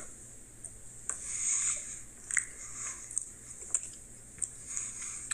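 A person chewing a piece of milk chocolate bar: soft, wet mouth sounds and small clicks that come and go.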